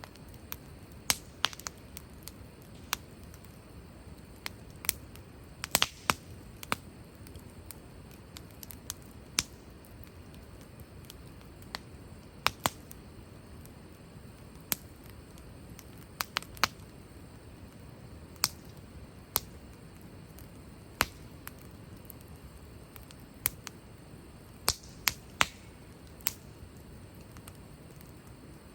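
Firewood burning in a campfire, crackling with sharp, irregular pops, some in quick pairs, over a low steady hiss.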